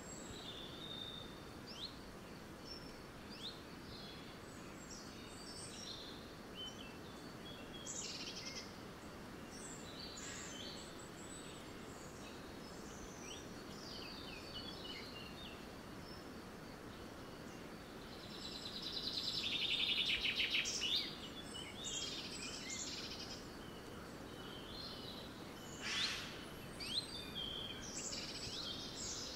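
Woodland birdsong: several birds chirping and calling over a steady low background hiss, with a louder, rapid trilling song about two-thirds of the way through and more loud calls near the end.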